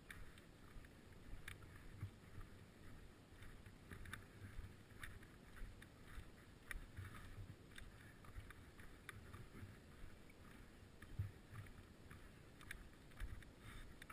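Faint low rumble of wind and road noise on the microphone during a bicycle ride, with scattered light clicks and rattles.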